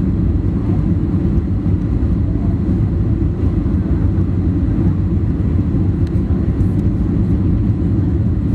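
Steady low rumble of a jet airliner in flight, its engines and airflow heard from inside the passenger cabin.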